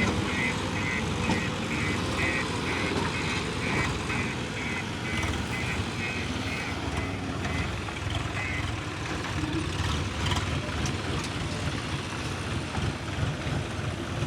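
Heavy diesel engine of an earthmoving machine running, with a reversing alarm beeping about two and a half times a second that stops a little past halfway.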